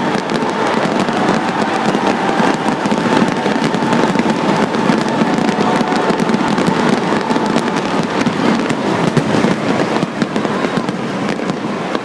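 Fireworks finale: a dense, continuous barrage of firework bursts and crackling, easing slightly near the end.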